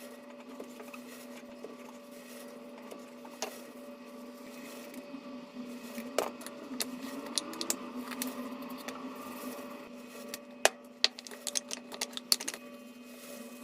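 Kitchen food-preparation sounds: scattered light taps and clicks of utensils and ingredients being handled, thickest in the second half, over a steady appliance hum.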